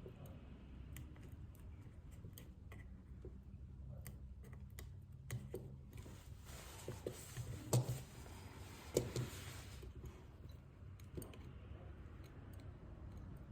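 Scattered light clicks and taps of small repair tools and phone parts being handled on a workbench. Two louder knocks come about 8 and 9 seconds in.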